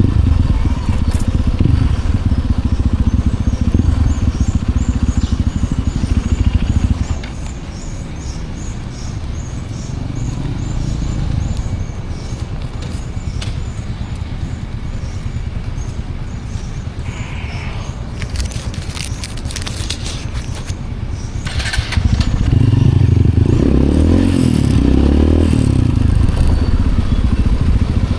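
Motorcycle engine running during a ride. The engine drops quieter about seven seconds in and grows loud again near the end, with uneven rises and falls.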